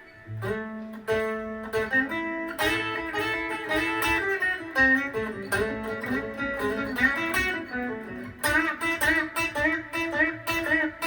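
A Gibson ES-335 semi-hollow electric guitar playing a rock and roll riff of picked notes and chords. The last few seconds have bent, wavering notes.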